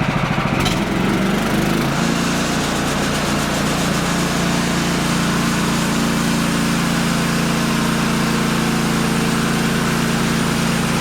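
Small gasoline engine of a portable bandsaw sawmill running steadily, settling to an even pitch about two seconds in, then cutting off abruptly at the end.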